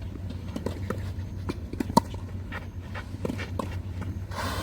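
Footsteps and shoe scuffs on a tennis court: irregular light knocks, with one sharper knock about two seconds in and a short scrape near the end, over a steady low rumble.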